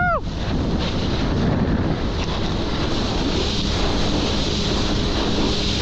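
Wind buffeting the microphone over rushing water and surf, with a jet ski engine's faint steady drone coming in about halfway through.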